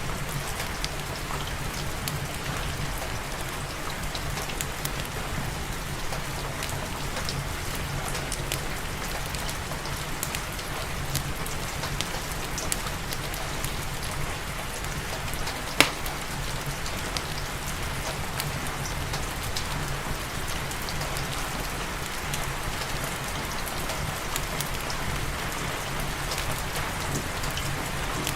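Steady rain hiss with a log fire crackling over it: scattered small pops and one loud snap about sixteen seconds in.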